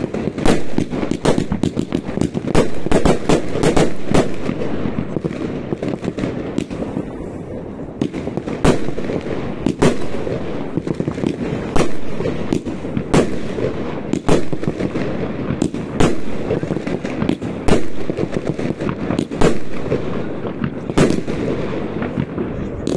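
Fireworks going off in a continuous barrage: irregular sharp bangs, often one to several a second, over a steady rumble and crackle.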